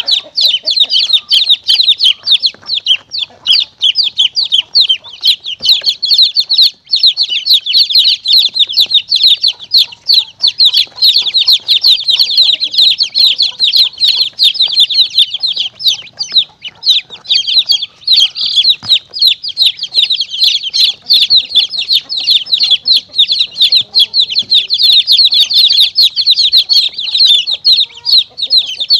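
Many baby chicks peeping rapidly and continuously in a dense, high-pitched chorus, used as a lure call for monitor lizards and mongooses.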